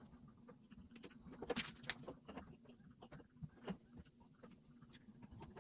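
Faint, scattered clicks and light knocks of parts and hand tools being handled during engine reassembly, over a steady low hum.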